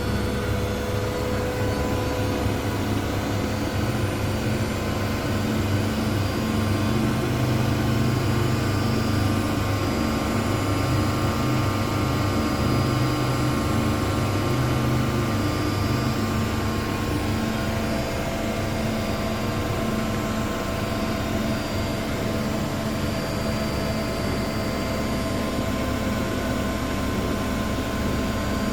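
Two Miele front-loading washing machines spinning together in their final spin, a steady motor and drum drone with several steady whining tones on top.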